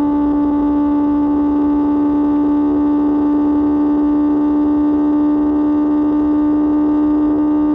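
QJ Motor SRK600's inline-four engine through an SC-Project exhaust, running at steady revs: a single unchanging drone.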